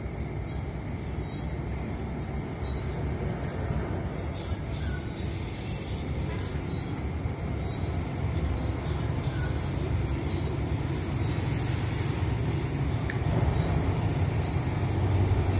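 Diesel locomotive of a passenger train approaching the station, its low engine rumble growing gradually louder.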